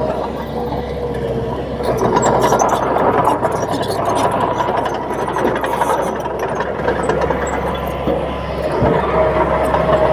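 Bulldozer's diesel engine running steadily at work, a little louder from about two seconds in.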